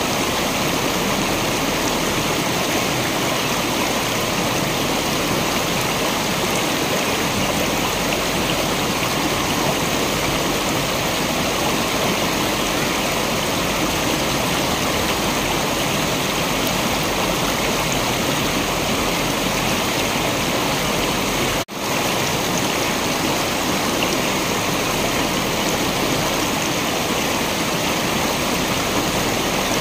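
Waterfall: a steady, unbroken rush of falling water. About two-thirds of the way through it cuts out for a split second and comes straight back.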